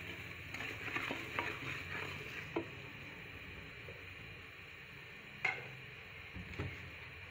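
Onions and ginger-garlic paste sizzling in oil in a pressure cooker while the masala is fried, stirred with a spoon: several scrapes and knocks in the first couple of seconds, then a softer sizzle with one sharp knock of the spoon about five and a half seconds in.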